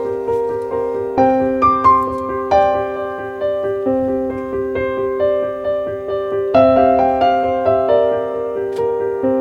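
Background piano music: a gentle melody of single sustained notes over repeating chords.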